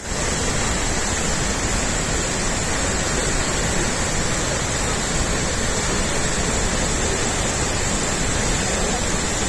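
Large waterfall with a heavy flow of water pouring and crashing, a loud, steady rush that does not let up.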